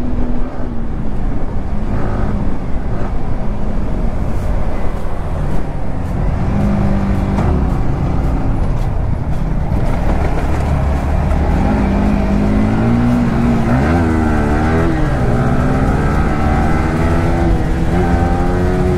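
Yamaha R15M's 155 cc single-cylinder engine running and revving, its pitch rising and falling. About 14 seconds in it is quickly revved up and down, then it climbs steadily near the end.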